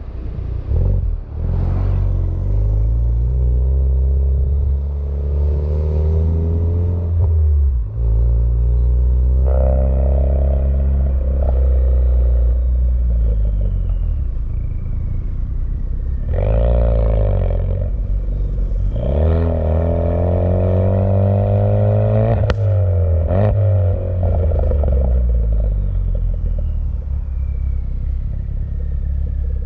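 2017 Ford Focus RS's turbocharged 2.3-litre four-cylinder running through a Cobb Tuning cat-back exhaust, accelerating through the gears: its pitch climbs and drops back at each shift several times, with the hardest pulls past the middle and a sharp click near one shift.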